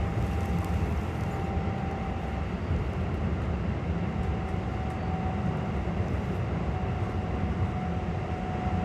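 Interior running noise of a Keikyu 600 series electric train car at steady speed: a continuous low rumble of wheels on rail with a faint steady tone above it.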